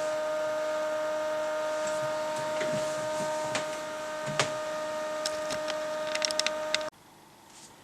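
A steady high-pitched electronic whine with several overtones, with scattered clicks and light knocks over it, cutting off abruptly near the end.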